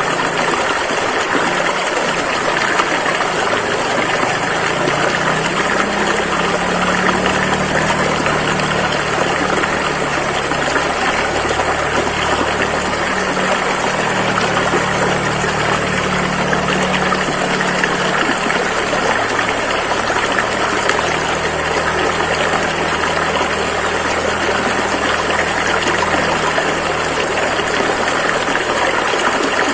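Rushing river water flowing steadily over rocks, a continuous even hiss and splash. A low hum sits underneath it for a stretch in the middle.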